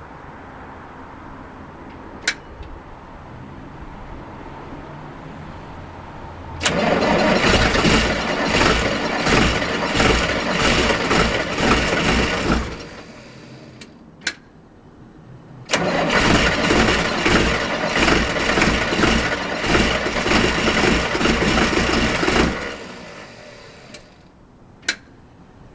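New Holland 8770 tractor's diesel engine being cranked by the starter in −16 °C cold: two long cranking attempts of about six and seven seconds, each cut off abruptly without the engine settling into a run, with single sharp clicks before and between them.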